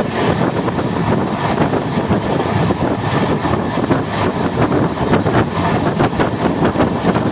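Passenger train running at speed, heard from on board: a loud, steady rumble of wheels on rail with rapid, continuous clatter, and wind buffeting the microphone.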